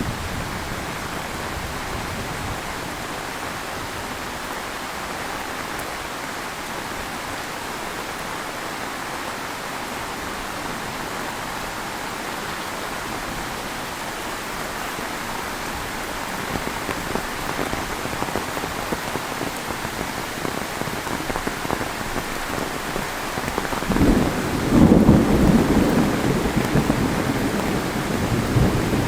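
Heavy rain falling steadily on the ground and surfaces. A low rumble of thunder builds and breaks loudly a few seconds before the end.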